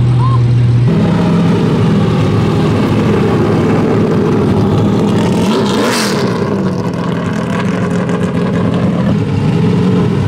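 Car engine running steadily at low revs, with a quick rise and fall in revs and a sharp burst about six seconds in, and more revving near the end.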